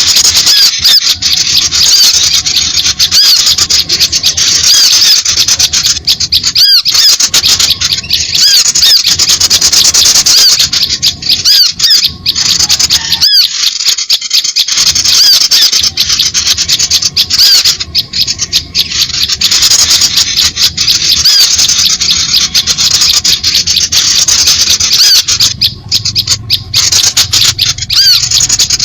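A dense, noisy chorus of small birds chirping and twittering, short rapid arching calls overlapping without a break: a bird-lure recording meant to draw small birds in.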